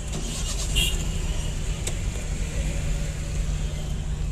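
Road traffic noise: a steady low engine rumble and hum, with a few faint short high tones.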